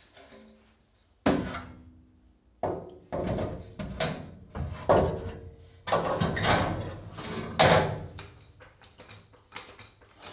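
Irregular knocks and clanks of steel body panel work, about a dozen sudden blows, a few leaving a brief metallic ring.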